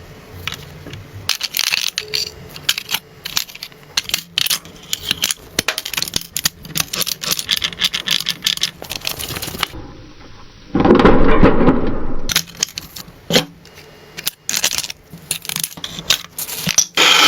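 Small metal parts clinking, tapping and scraping as they are handled and worked, with a short burst of louder rough noise about eleven seconds in.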